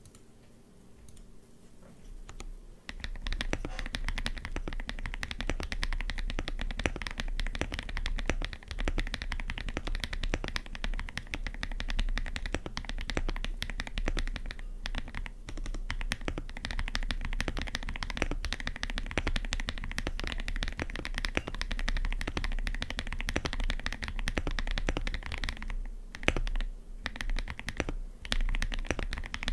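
Mechanical keyboard fitted with KTT Strawberry linear switches being typed on steadily: a quick, irregular run of key strokes that starts about two seconds in and pauses briefly a couple of times.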